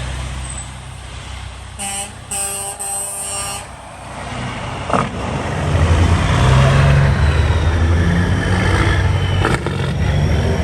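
Vehicle engine running, with a horn sounding in two blasts, a short one then a longer one, about two seconds in. From about halfway the engine grows louder and runs on steadily.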